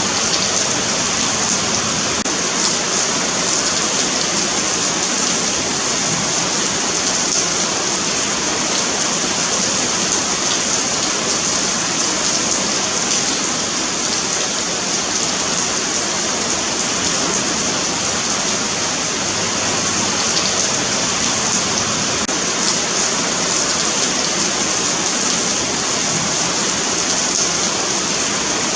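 Steady rain falling on a paved sidewalk, a continuous hiss with fine pattering and no letup.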